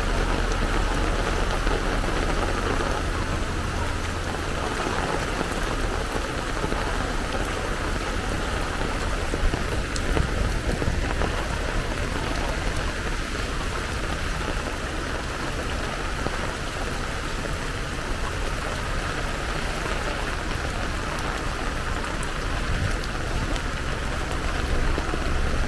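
Heavy rain falling steadily, a dense, even hiss, with a low rumble underneath that is stronger at the start and near the end.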